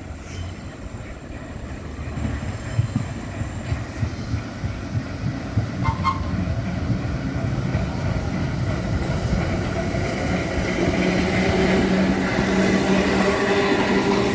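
New York City subway train approaching, its rumble growing steadily louder as it nears.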